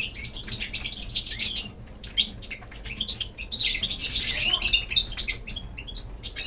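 Small pet birds chirping rapidly in overlapping bursts, pausing briefly about two seconds in and chattering most busily a little past the middle.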